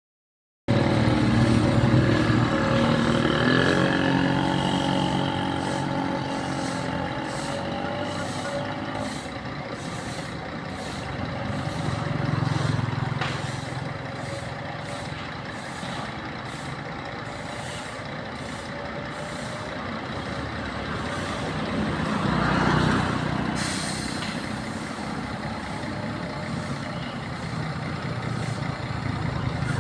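Scania K360IB coach's diesel engine running as the bus moves, its pitch rising and falling. A burst of air hiss comes about 22 seconds in.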